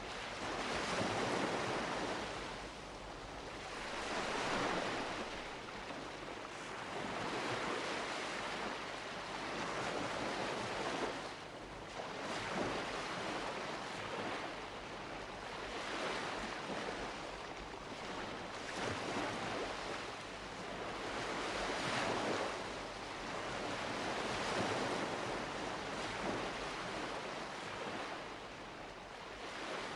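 Mediterranean surf: waves breaking and washing onto the shore, swelling and fading every few seconds, with some wind on the microphone.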